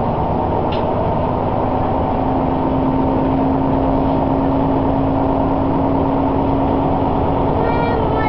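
Diesel railcar running along the line, heard from inside the car: a steady engine and wheel noise with a held hum that steps up slightly in pitch about two seconds in. Faint, wavering high-pitched tones begin near the end.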